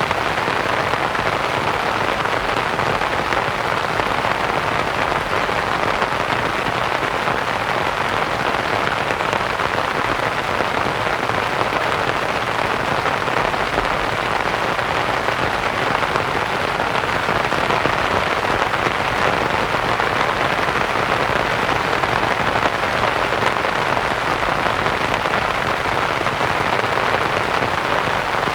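Steady rain pattering on a canvas tent, blended with a continuous white-noise hiss; an even wash of sound with no breaks or single drops standing out.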